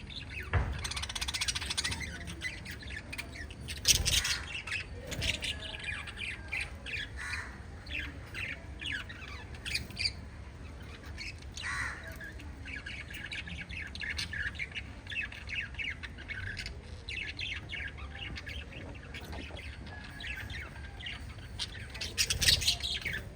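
Small pet parrots chirping and squawking in a busy, continuous chatter of short calls, with louder squawks about a second in, around four seconds in, and near the end.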